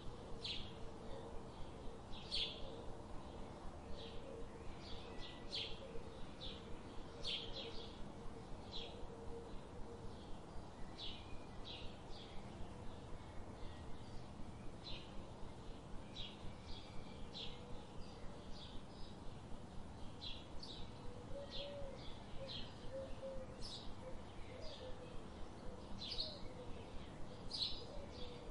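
Small birds chirping: many short, high chirps coming irregularly throughout, over a steady low background noise with a faint hum.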